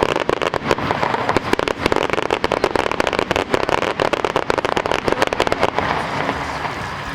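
Aerial fireworks bursting in a dense barrage of rapid cracks and pops, which thin out and die away about six seconds in.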